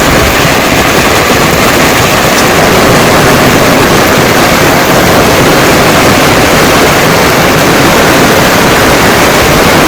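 Heavy monsoon rain falling in a loud, steady hiss.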